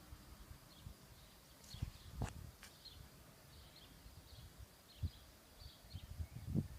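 Small birds chirping faintly in short, repeated high chirps, over an uneven low rumble, with a couple of sharp clicks about two seconds in.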